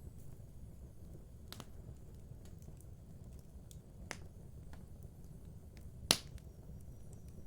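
Wood fire in a fireplace burning with a low steady rumble and a few sharp crackling pops, the loudest about six seconds in.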